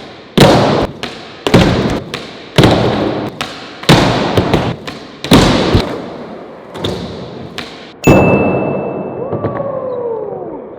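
A series of about seven heavy thuds, a little over a second apart, each dying away. About eight seconds in comes a bigger hit with a steady high tone, followed by a falling two-note glide.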